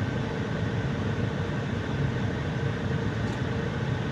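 Steady low mechanical drone with a faint constant hum, the running machinery of a parked truck heard inside its cab.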